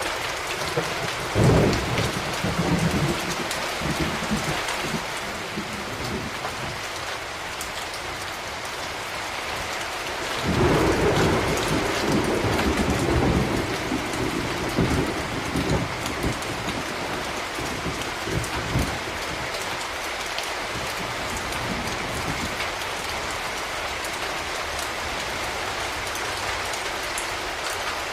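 Steady rain with rolling thunder. One rumble comes about a second and a half in and fades over a few seconds; a longer, louder rumble starts about ten seconds in and rolls on for several seconds more.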